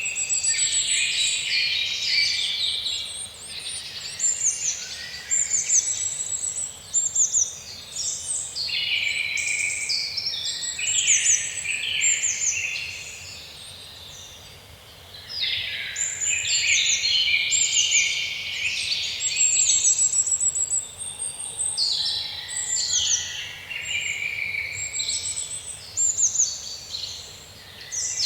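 Several small songbirds singing and chirping at once, overlapping fast trills and short high chirps, with a brief lull about halfway through.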